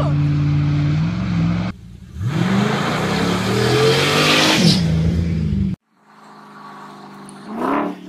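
LS V8 engine of a converted Land Rover Discovery running steadily. After a cut it revs hard with a rising pitch while the spinning tyres spray gravel and dust, a loud hiss over the engine. The engine cuts off suddenly, followed by a short whoosh near the end.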